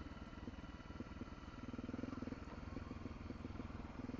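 Small motorcycle engine running steadily at low speed, a fast even exhaust beat with a slight swell about two seconds in.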